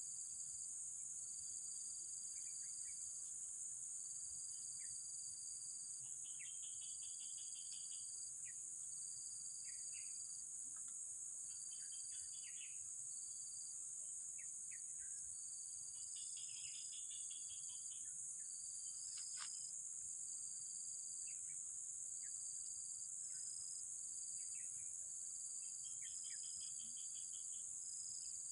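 Steady, high-pitched insect chorus of crickets or cicadas, with a second insect calling in repeated pulses about a second long, and short scattered chirps now and then.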